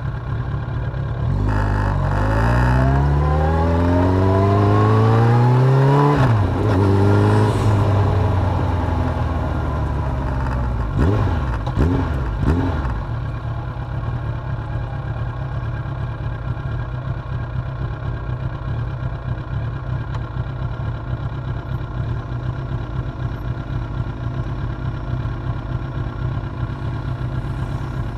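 Suzuki GSX750F motorcycle's inline-four engine pulling up through the revs, its pitch rising steadily for about four seconds before dropping. A couple of quick revs follow, and then it settles into a steady idle for the rest of the time.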